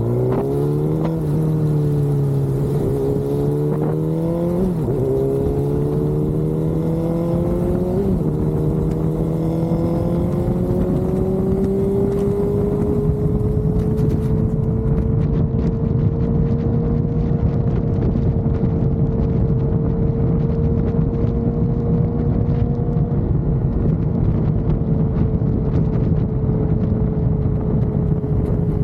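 Motorcycle engine pulling through several upshifts: the pitch climbs and drops sharply at each shift about one, five and eight seconds in, then rises slowly and settles into a steady highway cruise. A loud rush of wind noise runs under it and grows stronger about halfway through.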